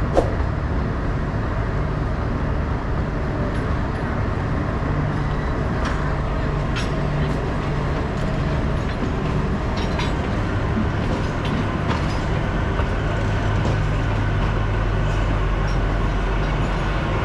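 Narrow-gauge Kalka–Shimla toy train running, a steady low rumble with a few scattered clicks and knocks.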